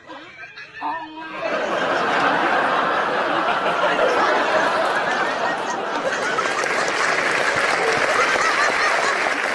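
A crowd of many people laughing and talking at once, starting suddenly about a second and a half in and then holding steady and loud.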